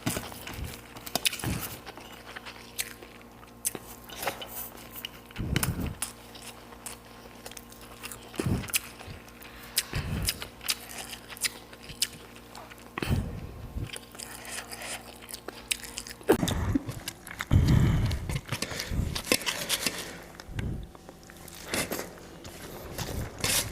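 Close-miked eating: a person biting and chewing food with many small sharp mouth clicks and a few heavier, louder bites, the loudest about two-thirds of the way in.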